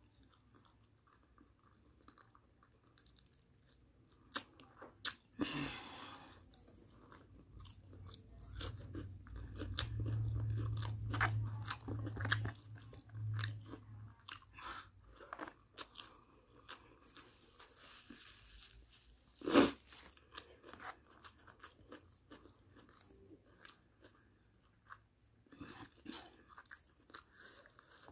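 Close-up eating sounds of barbecued chicken and rice eaten by hand: chewing with many irregular wet mouth clicks and smacks. A low rumble runs for a few seconds in the middle, and one sharp, louder click comes about two-thirds of the way through.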